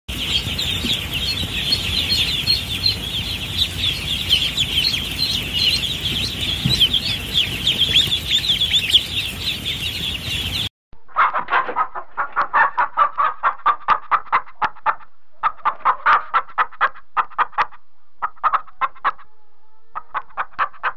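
A crowd of ducklings peeping continuously in a dense, high-pitched chorus. About halfway through it cuts to hens clucking in quick runs of short clucks with brief pauses between them.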